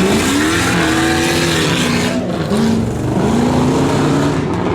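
A stock pickup truck's engine revving hard and easing off several times, its pitch climbing and dropping repeatedly over rough ground.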